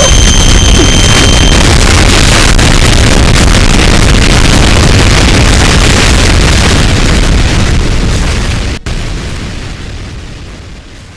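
Loud, distorted explosion rumble, held at full level for about eight seconds and then fading away, with a brief cut-out just before the fade deepens.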